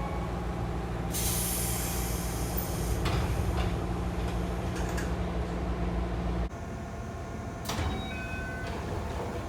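Sliding doors of a JR local train closing: a loud hiss of air from the pneumatic door engine about a second in, then knocks as the doors shut, over the train's steady low hum. After a sudden cut, a quieter hum follows with a knock and a few short tones.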